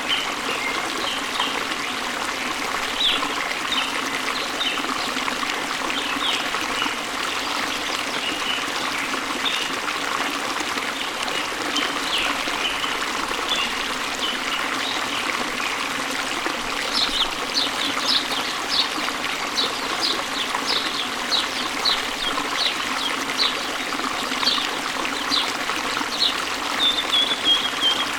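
Water flowing and splashing over rocks in a steady, even rush, like a small waterfall running into a stream. Short, high-pitched plinks and chirps are scattered over it, coming more thickly in the second half.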